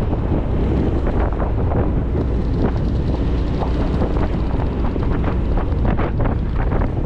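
Wind buffeting the microphone of a moving motorcycle, a steady low rumble of rushing air.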